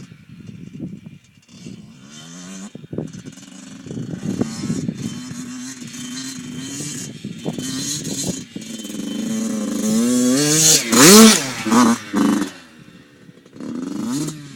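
Two-stroke dirt bike engine revving, building from about two seconds in and climbing in pitch. It is loudest around eleven seconds in, with a few sharp revs, then drops away, and there is a short rev near the end.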